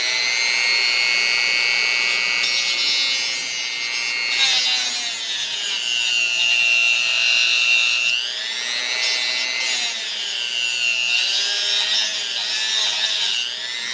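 Dremel rotary tool whining at high speed as it cuts a slot into the head of a seized Allen-head bolt. The pitch sags twice when the wheel bears into the metal, then climbs back.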